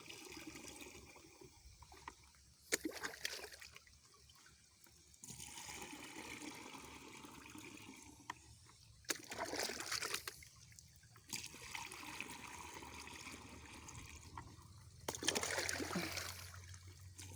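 Water trickling and sloshing into a sprayer tank as it fills for a pesticide mix. It comes in spells of a few seconds, louder twice.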